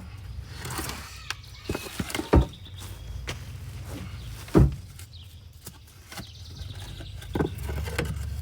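Knocks and clatter from working a floor jack and wooden blocking under a truck axle, with two heavy thumps about two and a half and four and a half seconds in.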